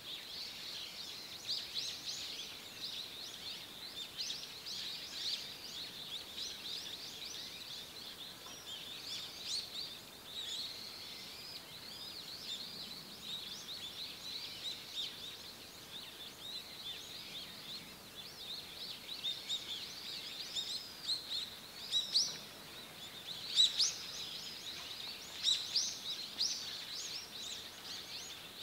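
Small forest birds chirping and twittering: many short, high-pitched calls overlapping, with a few louder, sharper calls near the end.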